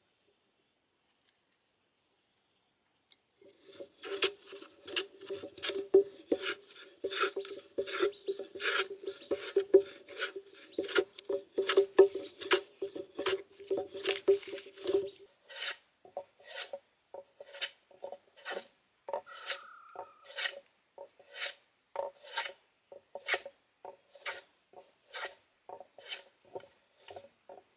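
Hand tool rasping in quick, repeated strokes, about three a second, starting a few seconds in. About halfway through the strokes slow to about two a second, and the steady low tone under them stops.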